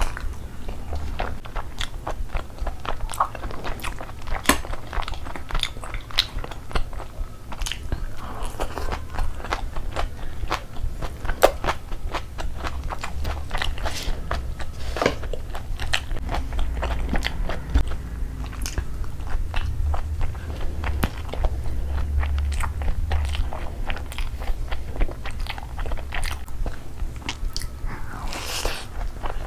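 Close-miked chewing and biting of a mouthful of chicken and fried rice: wet chewing with many irregular crunchy clicks.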